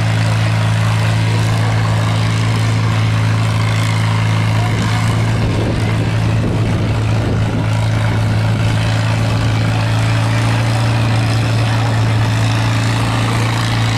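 Stock farm tractor's engine running at steady, constant speed under full load while pulling a weight-transfer sled, one unbroken low note with no revving.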